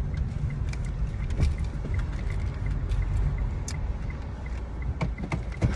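Car running, heard from inside the cabin: a steady low rumble with scattered small clicks and knocks, one stronger knock near the end.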